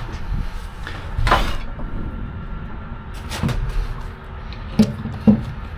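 Electric drill boring slowly through thick steel plate, an uneven low grinding rumble, with a couple of sharp knocks near the end.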